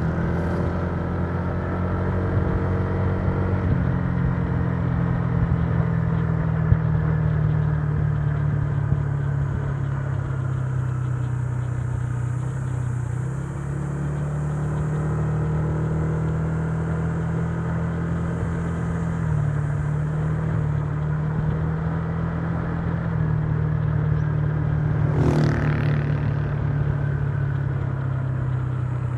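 Honda Giorno 125 scooter's single-cylinder four-stroke engine running at a steady cruise, its pitch shifting slightly as the throttle changes, over road and wind noise. A brief whoosh comes at the very start and another about 25 seconds in.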